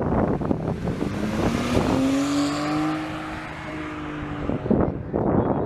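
A car engine accelerating: its pitch rises for about two seconds, then holds steady before dropping away near the end.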